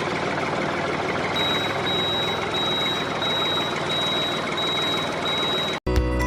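Steady running noise of a miniature model truck, with a high reversing beep that starts about a second and a half in and repeats roughly every half second. The sound cuts off abruptly near the end and music begins.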